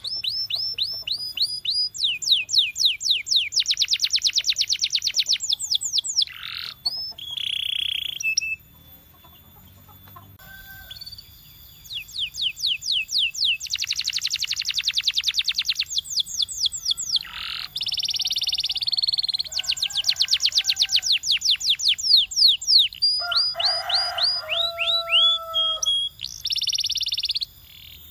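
Domestic canary singing: phrase after phrase of fast trills, each a rapid run of repeated sweeping notes, with a pause of about two seconds about a third of the way through.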